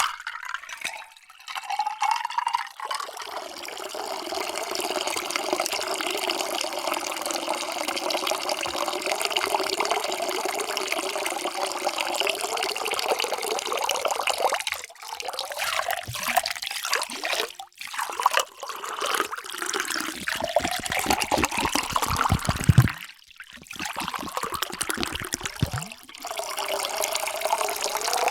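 Water pouring into containers in several separate pours with short breaks between them. The ringing note of each vessel rises in pitch as it fills, and there is a stretch of gurgling splashes near the end of one pour.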